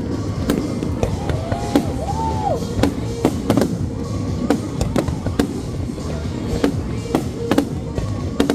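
Fireworks going off in a steady series of sharp bangs, about one or two a second, with music playing underneath.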